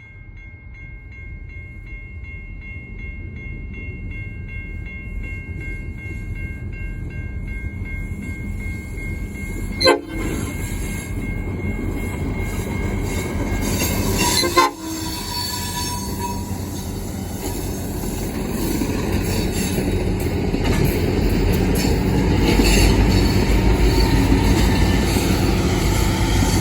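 Diesel-hauled freight train approaching, its locomotive engine rumble growing steadily louder. Two short horn blasts about ten and fifteen seconds in.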